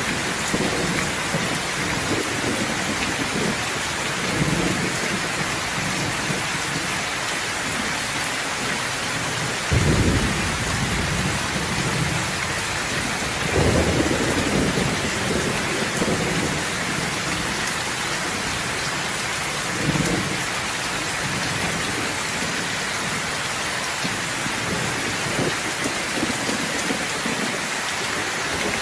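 Steady rain falling, with rumbles of thunder rolling in several times; the strongest come about ten, fourteen and twenty seconds in.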